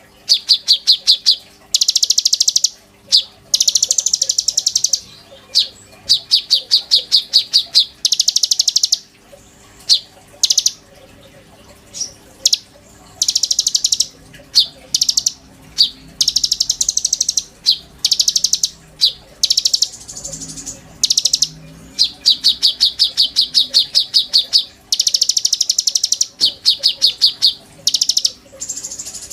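Konin songbird calling in rapid trills of fast-repeated high chirps, given in short bursts of about half a second to a second, one after another with brief gaps.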